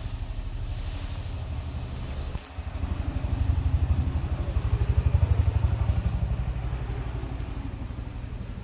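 Motorcycle engine running with a steady low throb. It dips briefly about two seconds in, then gets louder for a few seconds before easing off.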